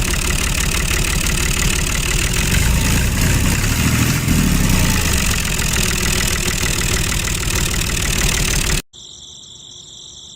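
A small motor running with a steady, fast, engine-like buzz that cuts off abruptly near the end.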